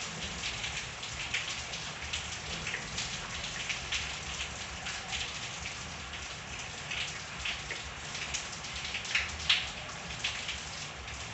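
Steady rain with many separate drops splashing close by, as short sharp taps over the hiss. A louder splash comes about nine and a half seconds in.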